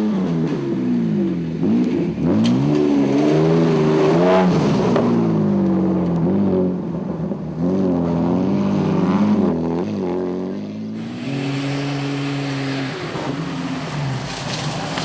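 Off-road 4x4's engine revving up and down repeatedly as it works through an obstacle, holding a steadier pitch for a couple of seconds near the end.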